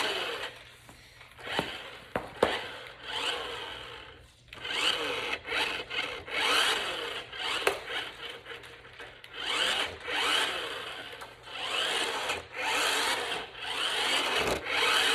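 Small electric motor of a toy remote-control Cybertruck whirring in repeated short bursts as it is driven, with its wheels rubbing and rolling on the floor.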